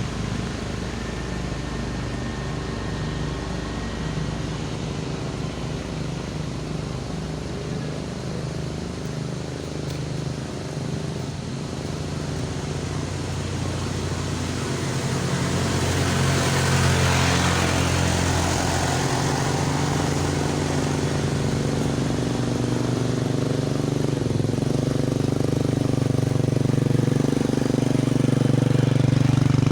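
Motor vehicle engines running on a steep uphill road, getting louder about halfway through as one comes close, with a brief rush of noise, and rising again near the end.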